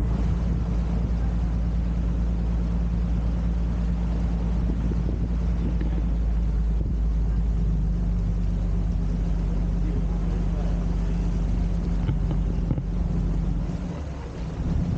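Sightseeing boat's engine running steadily with a low hum, wind buffeting the microphone; the engine note eases off near the end.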